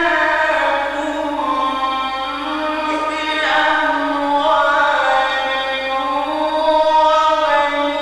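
A man's voice chanting the Quran in the slow, ornamented mujawwad style, holding long melodic notes that glide slowly up and down in pitch.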